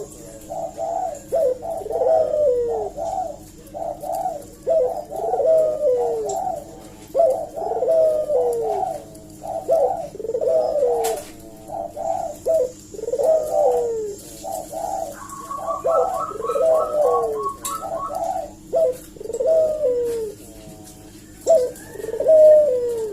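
Puter doves (Barbary doves) cooing steadily. Each phrase is a short stutter of notes followed by a longer falling coo, repeating about once a second with brief gaps. A steady low hum runs underneath, and a short run of quick, higher chirps from another bird comes about two-thirds of the way in.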